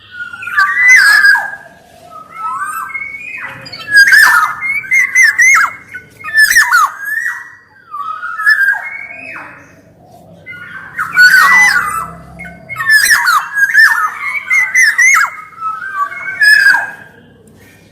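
Black-naped oriole (kepodang emas) singing vigorously: a quick run of short, bending whistled notes mixed with sharper, harsher calls, in phrases with brief pauses.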